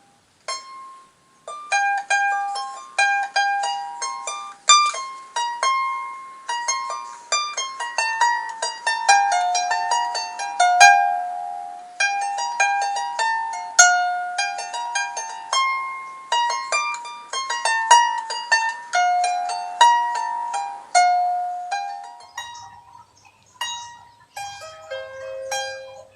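Twelve-string diatonic Celtic bardic lyre plucked by hand, playing a melody of single ringing notes that each fade away. Near the end the sound changes and a faint low hum comes in.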